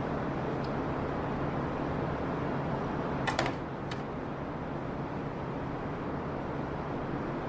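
Steady low hum of workshop background noise, with a short cluster of sharp clicks about three and a half seconds in and one more click just after.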